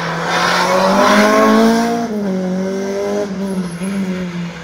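Racing Renault Clio's engine pulling hard, its pitch rising for about two seconds, then dropping sharply and running on at a steadier pitch.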